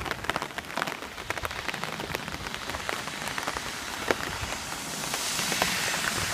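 Rain falling: a steady hiss scattered with many separate drop ticks, with the hiss growing stronger near the end.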